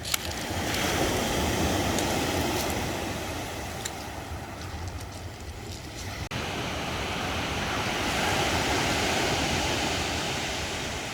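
Sea surf washing onto the shore, swelling up and falling back twice, with wind buffeting the microphone.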